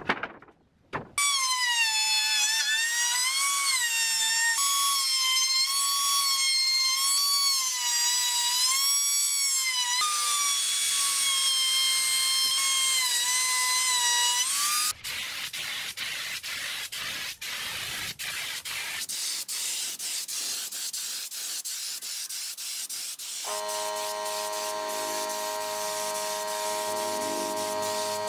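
Power tools working wood: a motor whine that rises and falls in pitch as the load changes, then a stretch of quick, irregular clicks and rubbing, then a steadier hum.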